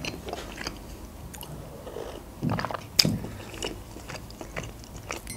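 Close-miked eating mouth sounds: soft chewing and mouth clicks, with a louder burst about two and a half seconds in and a sharp click at about three seconds.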